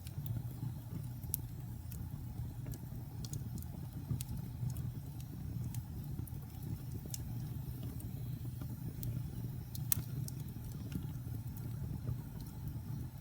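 Wood logs burning in a fireplace: a steady low rumble of the flames with scattered sharp crackles and pops, the loudest pop about ten seconds in.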